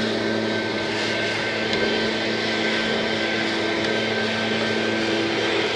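A motor running steadily: a constant hum with a couple of steady tones over a rushing noise.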